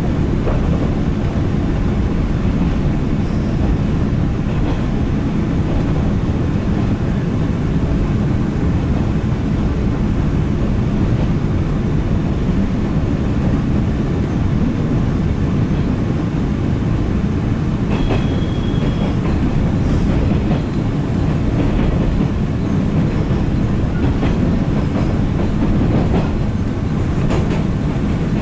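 Running noise of a 113 series electric train heard from inside the car: a steady low rumble of wheels on the rails, with a few light clicks and a brief high tone about eighteen seconds in.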